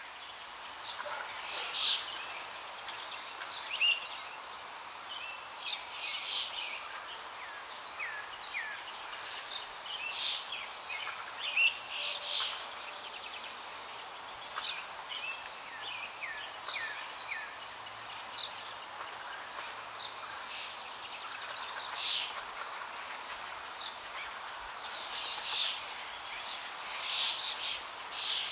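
Several birds chirping and singing, many short calls in quick succession over a steady background hiss.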